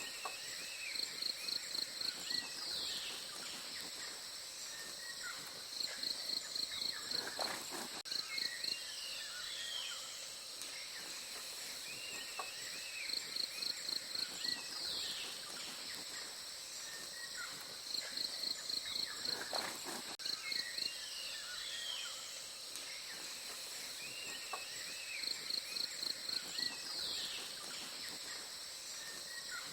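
Forest ambience: a steady high insect drone, with a quick series of about seven high pulsing notes repeating about every six seconds and scattered short chirping bird calls between them.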